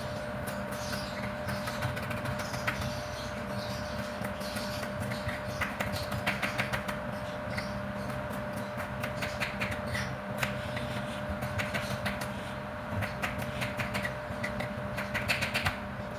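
Kitchen work: quick clicks, taps and clatter of utensils in clusters, over a steady mechanical hum.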